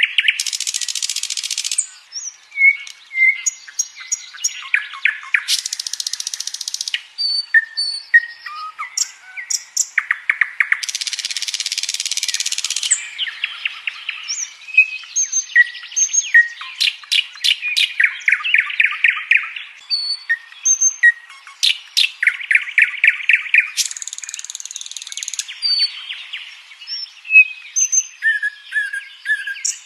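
Common nightingale singing a varied song: fast runs of repeated notes, buzzy rattling phrases and single clear whistles, in phrases a second or two long separated by short pauses.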